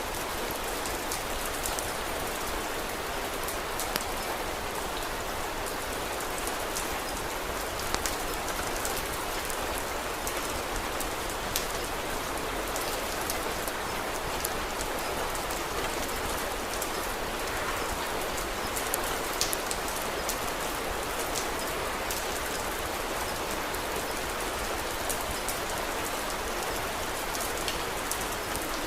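Steady rain falling, with scattered sharp crackles from a wood fire every second or few.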